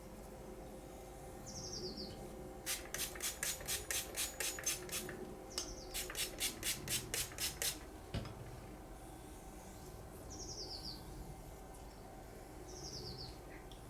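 Quick, even back-and-forth scraping strokes on a wet Welsh slate hone, in two runs of about ten strokes each, followed by a single low knock. A small bird chirps briefly a few times.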